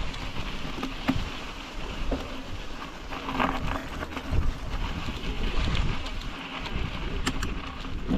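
Wind buffeting the microphone of a bike-mounted GoPro and tyre noise as a bicycle rolls downhill, with scattered clicks and rattles from the bike.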